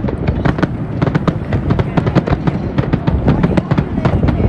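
Fireworks going off in a dense, continuous barrage: many sharp bangs and crackles a second over a steady rumble of booms.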